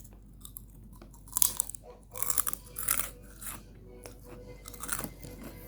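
Crunching in several short, crackly bursts, clustered over a couple of seconds and again once near the end: someone chewing crunchy food close to the microphone.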